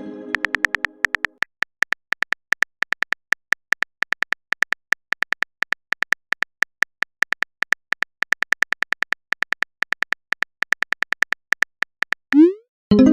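Simulated phone-keyboard typing clicks from a texting-story app, a quick irregular run of short high ticks, several a second. A message chime is dying away at the start, and a short rising pop followed by a new chime comes just before the end: a message being sent.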